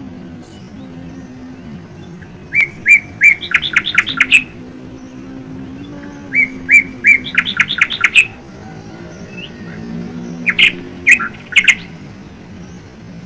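A songbird singing three phrases about four seconds apart, each starting with a few spaced chirps and speeding into a quick run of higher notes.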